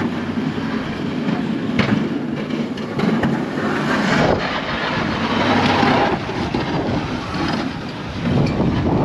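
Strong blizzard wind gusting across the microphone, a loud rushing rumble that swells and eases.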